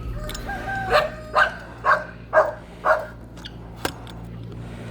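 A dog barking five times in a quick, even run, about two barks a second.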